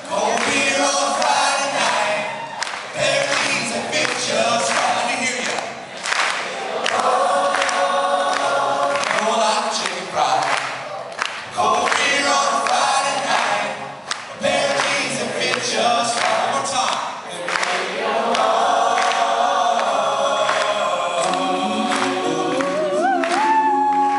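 Male a cappella vocal group singing in close harmony on stage. Near the end a single voice slides upward above the chords.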